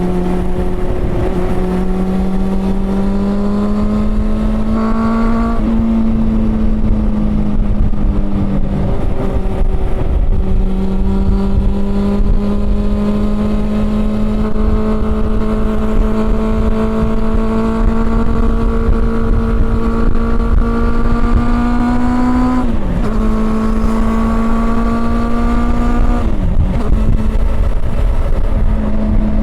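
Honda CB400 Super Four's inline-four engine running under way at a steady, high-pitched note that slowly climbs, with four brief dips in pitch. There is a low rumble of wind and road underneath.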